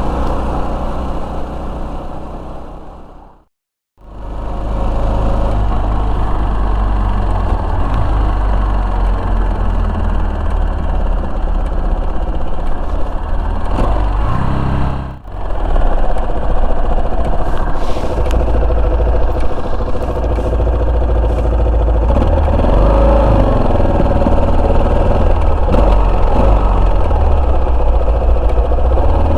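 Yamaha Serow 250's single-cylinder engine running while riding, under a heavy low rumble. The sound drops out completely about four seconds in and dips briefly at about fifteen seconds, as the footage cuts.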